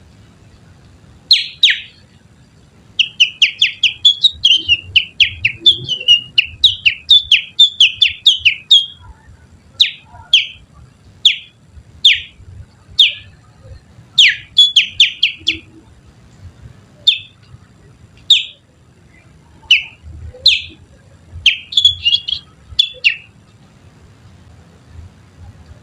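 Human finger whistling, a little finger in the mouth, imitating the song of the Kutilang Sutra bird. It comes as short, sharp down-slurred whistles: a fast run of notes, then single notes about a second apart, and another quick cluster near the end.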